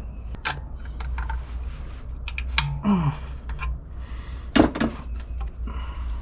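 Scattered clicks and knocks of a GM HEI distributor cap being set down over the rotor and fitted in place, hard plastic and metal against metal, with one louder knock about halfway through.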